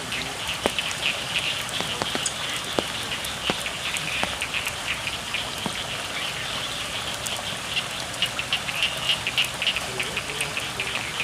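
Steady rain on a rice field, with scattered close drops ticking, and a chorus of frogs calling in rapid pulses throughout.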